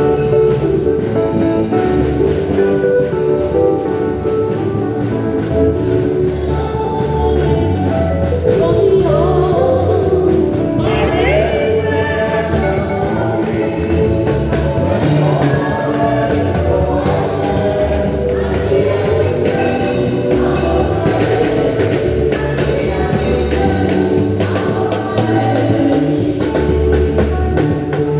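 Gospel choir singing a praise song with a drum kit and instruments backing it, in a steady beat.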